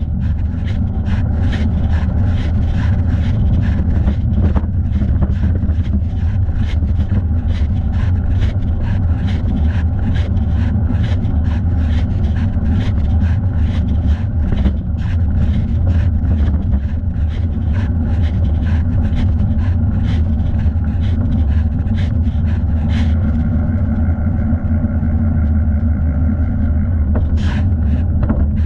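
Bicycle ride: heavy low wind and road rumble with light knocks about twice a second. A steady higher whir joins for a few seconds near the end.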